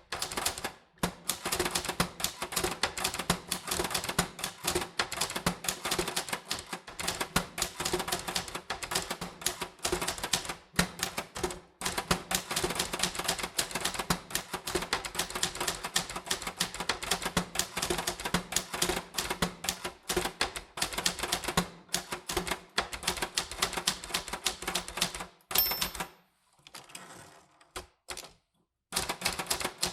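Typewriter keys striking in quick, continuous typing, with brief pauses. Near the end the typing stops for a few seconds: a brief high ring, then a softer rasping sound, before the keys start again.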